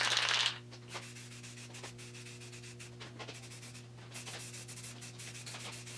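Light, irregular scraping and rubbing strokes of hand work on a small part, over a steady low hum.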